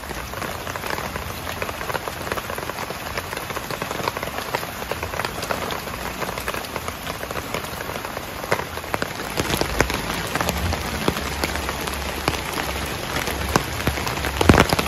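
Heavy rain falling steadily on a tent flysheet, with many individual drops pattering and a louder hit near the end.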